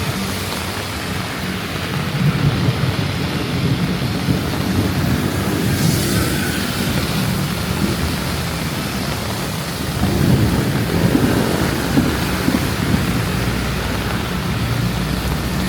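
Heavy rain falling steadily, a dense hiss with a low rumble underneath that swells slightly twice.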